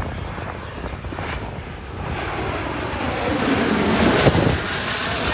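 Jet airliner on approach passing by, its engine noise swelling to its loudest about four seconds in, with a sweep down in pitch as it goes past.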